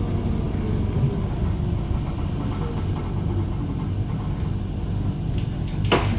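Bombardier Flexity tram running along the rails, heard from inside the car: a steady low rumble of wheels on track with faint sliding whines from the drive, and a single sharp clack near the end.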